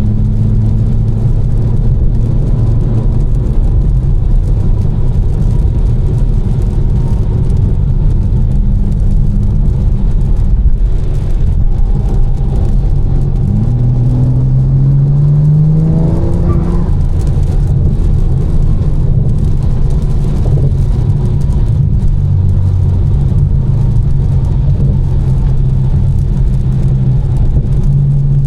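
Tuned BMW M4's twin-turbo straight-six, with catless downpipes and an Fi exhaust, running under steady cruise with road noise. About halfway through it accelerates, its pitch rising for about three seconds, then breaks off as the driver shifts or lifts and it settles back to cruising.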